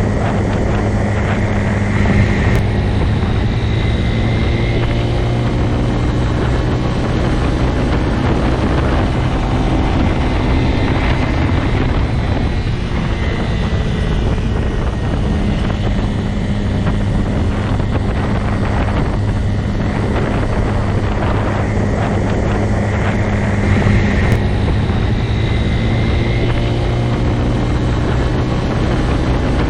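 Motorcycle engine running at a steady speed, its low note holding level throughout.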